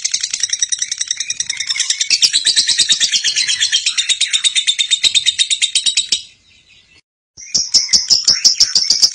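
Lovebird ngekek: a long, loud, shrill chattering song made of rapid, evenly repeated notes. It cuts off suddenly about six seconds in, goes nearly silent for about a second, then resumes.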